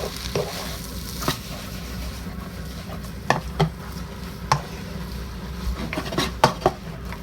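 Kottu with chicken gravy being stirred in a hot pan: a utensil knocks and scrapes against the pan about eight times at irregular intervals, over a light sizzle that fades after the first couple of seconds.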